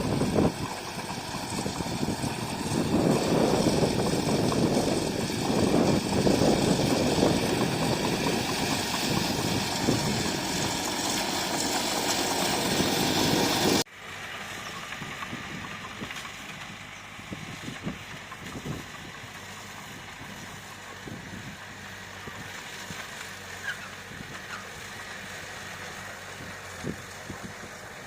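Diesel engine of heavy earthmoving equipment running, loud with repeated swells for about the first half. It then cuts off abruptly to a quieter, steadier engine sound with occasional light knocks.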